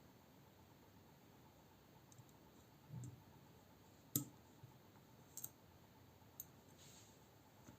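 A few sparse, faint clicks and taps of small metal knife parts and a driver being handled, including a sharp click about four seconds in and a quick double click shortly after.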